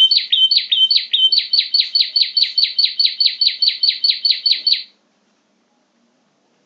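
Prinia (prenjak) lure call: a rapid, even series of sharp chirps, each sweeping downward, about four or five a second. The series stops abruptly a little before the five-second mark.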